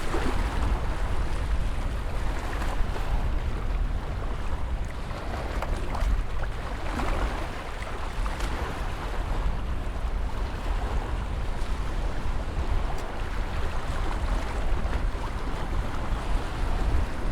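Ocean surf: waves breaking and washing in a continuous wash of noise over a deep low rumble, swelling and easing every few seconds.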